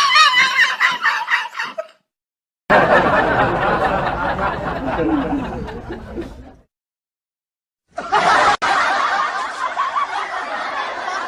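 People laughing, in short clips broken by two brief silent gaps.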